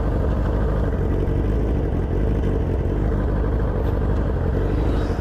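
Motorcycle engine running steadily, a constant low rumble with no change in speed.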